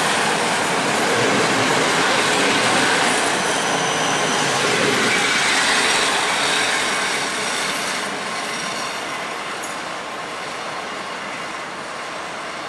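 Passenger coaches of a departing PKP Intercity express rolling past, a steady rumble of wheels on track with a faint high whine in the middle; the noise fades from about seven seconds in as the last coach pulls away.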